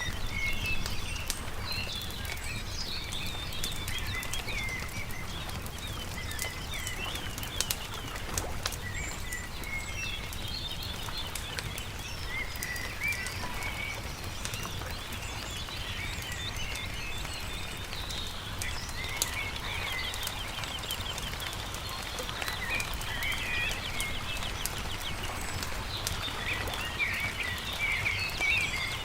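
Songbirds chirping and singing over the crackle and pop of a wood campfire, with a steady low rumble underneath.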